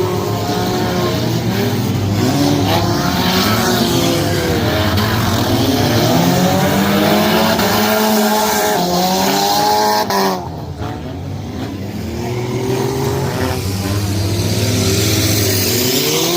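Junk race cars' engines revving up and down together, with tyre and track noise; the engine note rises and falls repeatedly. About ten seconds in the sound briefly drops away before the engines pick up again.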